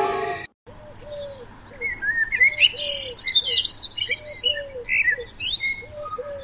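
Background music cuts off about half a second in. Then birds sing: a low call repeating in phrases of three or four notes, with higher chirps and twitters over it.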